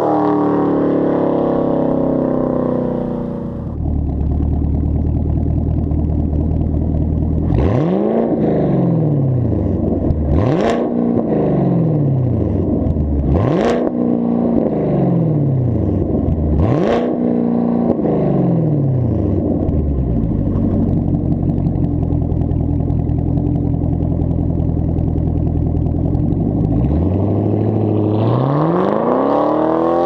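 2019 Camaro SS 6.2-litre V8 exhaust with a muffler delete: a rev falling back to idle, then four sharp throttle blips about three seconds apart, each rising and dropping back quickly, then idle and a rising rev near the end.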